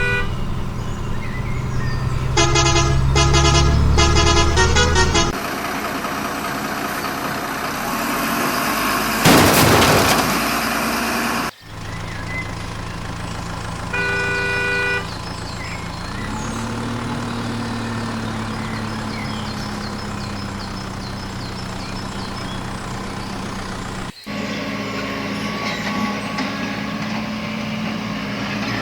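A string of truck sound effects cut together: a heavy engine running, a loud burst of noise about nine seconds in, and a horn honking once briefly a little after halfway. The sound changes abruptly at each cut.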